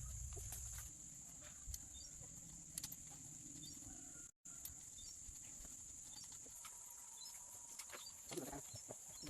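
Quiet rural background: a steady high insect drone with faint small chirps, and a chicken clucking briefly near the end. A low hum stops about a second in.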